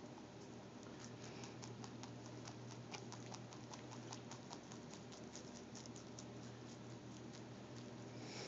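Rabbit chewing fresh cilantro: a fast, faint run of crisp crunching clicks, several a second, over a steady low hum.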